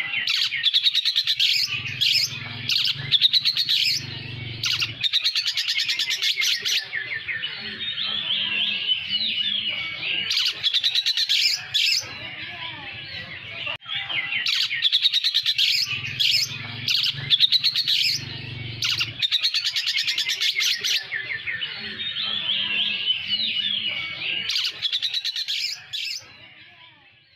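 Oriental magpie-robin (kacer poci) singing a long, fast, continuous song full of chattering trills, laced with imitated lovebird calls. The song breaks off briefly about halfway through and fades out at the very end.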